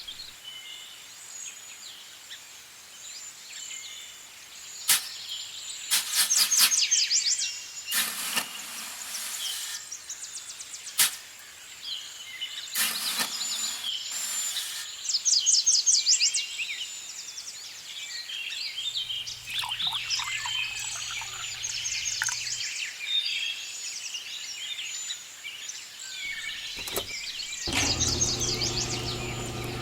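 Small birds chirping and twittering throughout, broken by several sharp clicks and short rustling bursts in the first half. A low hum comes in briefly past the middle, and a steady buzzing sound with several tones starts near the end.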